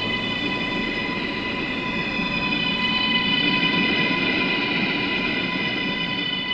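R143 subway train running, a rumble of wheels on track under a steady high-pitched whine that holds one pitch.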